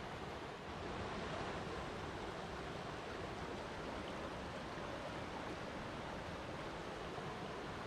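Water flowing and splashing steadily, a continuous even rush like a stream or small waterfall.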